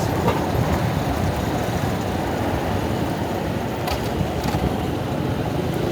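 Honda Monkey motorcycle running on the road, its engine and road noise mixed with wind buffeting the camera microphone, steady throughout.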